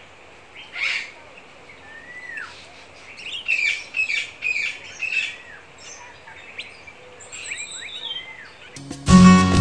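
Several songbirds chirping and calling over a faint steady hiss, with arched whistled notes that rise then fall and a burst of quick chirps in the middle. Near the end, strummed acoustic guitar music comes in loudly.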